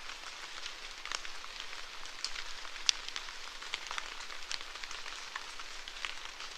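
Steady rain falling, with many separate drops striking close by as sharp little ticks over the hiss; one drop lands more sharply a little under three seconds in.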